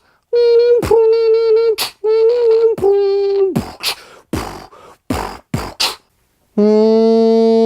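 A person's voice beatboxing: a held hummed note cut through by sharp mouth clicks, then a run of separate clicks and pops. After a short pause, a steady, lower buzzing drone starts near the end.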